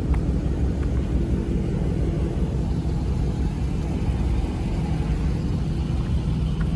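Steady low rumble of a car on the move, engine and road noise holding even throughout.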